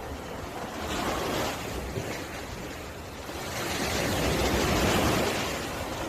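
Surf washing onto a beach, a steady rush that swells about a second in and again, louder, around four to five seconds in.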